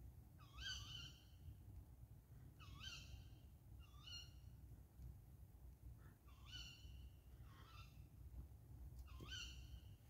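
A bird giving a short, squeaky call six times, every one to two seconds, over a faint low steady rumble.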